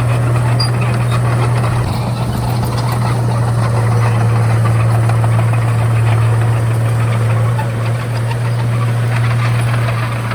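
Komatsu D31A bulldozer's diesel engine running steadily under work, a constant low drone with a light rattle over it.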